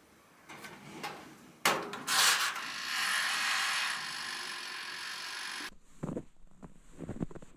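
A sharp click, then a few seconds of steady scraping or sliding friction that stops suddenly, followed by a few soft knocks.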